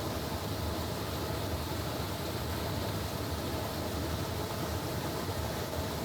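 Steady, even noise with a low hum underneath, unchanging throughout.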